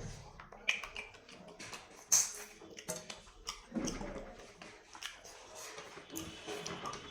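Close-up eating sounds: chewing with scattered sharp mouth clicks and smacks.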